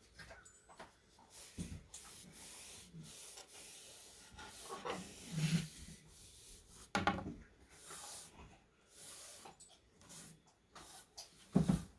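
Cloth rubbing over small pieces of wood trim as stain is wiped on, with irregular scraping and a few short knocks.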